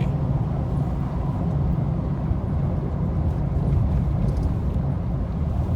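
Car driving, its engine and tyres heard from inside the cabin as a steady low rumble.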